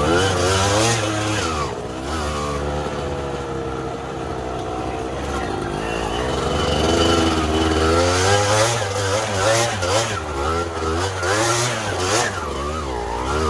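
Dirt bike engine revving up and down while riding over a trail, its pitch rising and falling every second or so with throttle changes.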